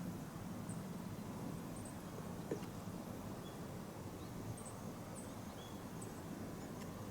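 Small birds giving short, high chirps every second or so over a low, steady rumble, with one sharp click about two and a half seconds in.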